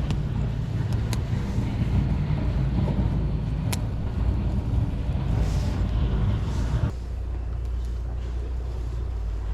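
Wind buffeting the microphone with a low rumble, cut by a few sharp cracks in the first four seconds. The rumble drops suddenly about seven seconds in.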